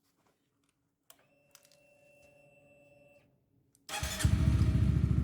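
Motorcycle engine starting about four seconds in and running loudly with a rapid low pulsing, after a few faint clicks and a faint steady hum.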